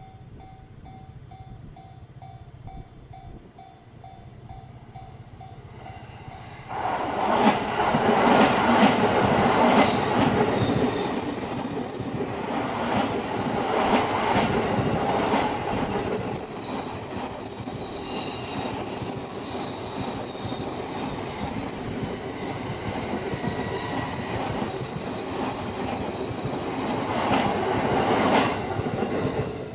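Level-crossing warning bell ringing in a steady repeating beat, then an electric train passing close by from about seven seconds in, loud, with a rhythmic clickety-clack of wheels over rail joints. It swells again near the end before the train has gone by.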